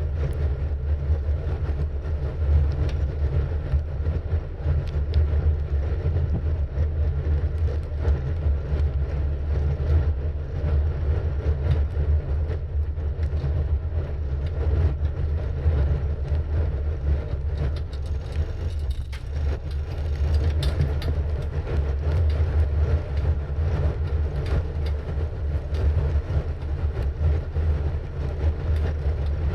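Steady low wind rumble on the camera microphone during a bicycle ride, with small rattles and clicks from the bike and the road surface throughout.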